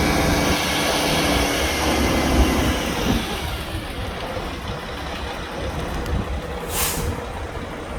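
Mack E7 11.9-litre turbo diesel running in a dump truck, louder for the first three seconds and then settling to a lower, steady run. A short hiss of released air about seven seconds in.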